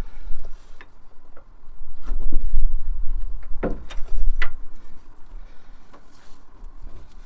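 A few sharp knocks and clinks of tools and metal parts being handled during car repair work, with a low rumble underneath.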